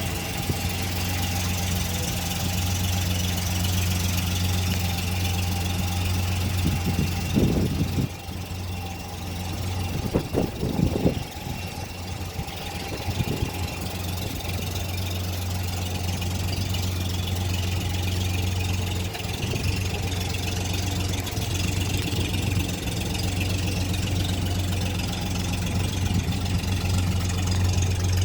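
A 1953 vehicle's engine idling, cold-started a little earlier and still warming up. The running is steady, with a dip in level about 8 seconds in and a few short louder noises around 10 to 11 seconds.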